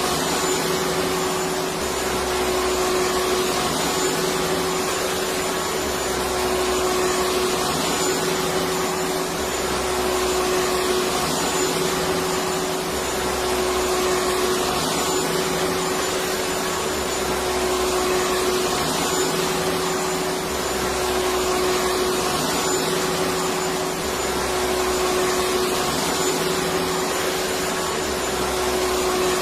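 Electric vacuum cleaner running steadily, a continuous rushing noise with a steady whine. A low hum underneath swells and drops about every four seconds.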